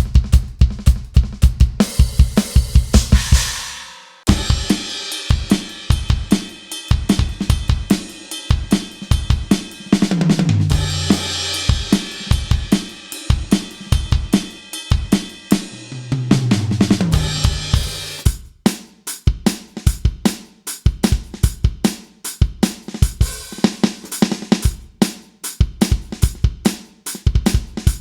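KAT Percussion KT4 electronic drum kit played as a full groove of kick, snare, hi-hat and cymbals, with tom fills falling in pitch about 10 and 16 seconds in. The kit's sound changes abruptly about 4 seconds in and again about 18 seconds in, as the next preset kit is called up.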